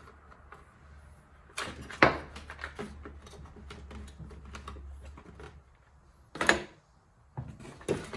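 Clicks and knocks of a chainsaw and tools being handled on a bench, with a sharp knock about two seconds in and another about six and a half seconds in. A faint low hum underneath stops about halfway through.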